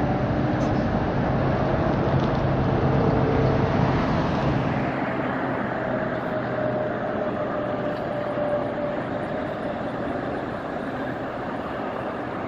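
Steady road traffic noise with vehicle engines humming, swelling about three seconds in and then easing off.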